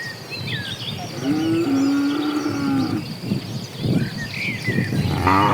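Cattle mooing: one long, low moo from about one to three seconds in, then a second, louder moo starting near the end. Faint bird chirps come and go behind them.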